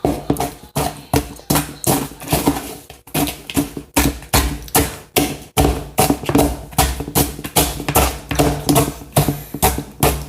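Crunchy cereal with peanuts being chewed close to the microphone: loud, sharp crunches, a few a second, with no pause.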